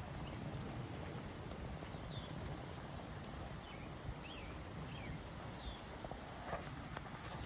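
Wind gusting across the microphone with a steady low rumble, while a bird chirps short calls every second or so.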